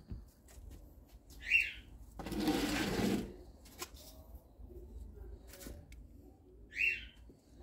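A bird gives the same short, sharp call twice, about five seconds apart. Between the calls, about two seconds in, there is a noisy rustle lasting about a second.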